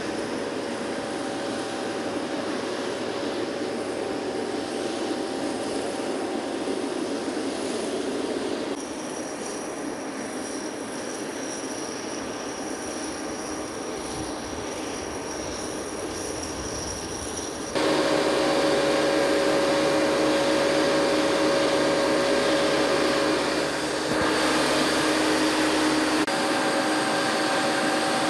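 Jet aircraft engines running with a steady drone and a few held tones. The sound changes abruptly twice and grows louder with a stronger hum about two-thirds of the way through.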